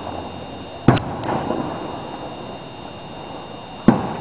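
Two sharp bangs of distant fireworks, about three seconds apart, over a steady background hiss.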